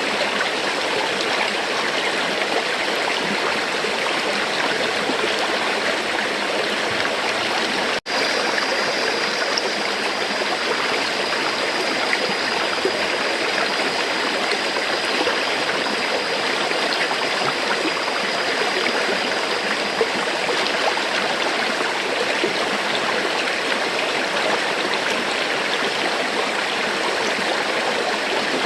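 River water flowing in a steady, even rush. The sound cuts out for an instant about eight seconds in, then carries straight on.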